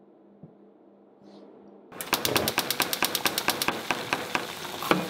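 A faint low hum, then about two seconds in food starts frying in hot oil: a sudden burst of rapid crackling pops that settles into a steady sizzle with occasional louder pops.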